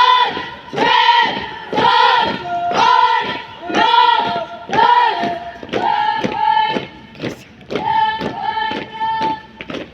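A group of cadets' voices calling out in unison in a steady drill chant, about one drawn-out shout a second, each rising and falling in pitch. Short thumps come in between the calls in the second half.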